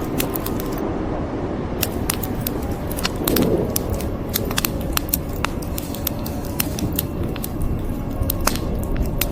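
Wood fire crackling with frequent irregular sharp pops and snaps over a steady hiss of rain.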